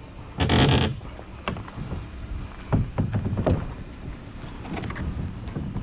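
Fishing kayak on the water: a short rush of splash-like noise about half a second in, then scattered sharp knocks and clunks against the hull.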